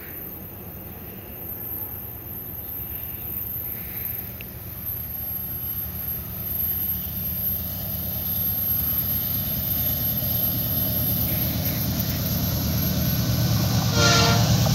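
Diesel-electric freight locomotive hauling a loaded log train approaching, its deep engine drone growing steadily louder. A brief higher-pitched sound comes near the end.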